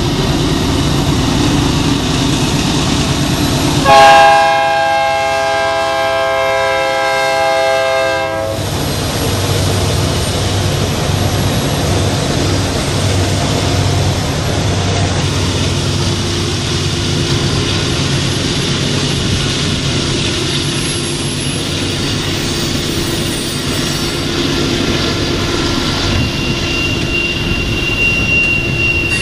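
BNSF diesel freight locomotives pass on a mountain grade, sounding their multi-tone horn in one long blast of about four seconds starting about four seconds in. The locomotives' engines rumble by, followed by intermodal flatcars carrying trailers clattering steadily over the rail joints.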